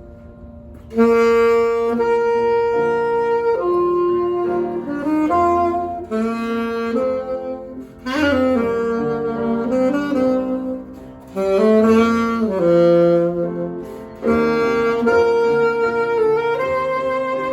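Alto saxophone playing the melody of a jazz tune in a series of phrases, entering about a second in.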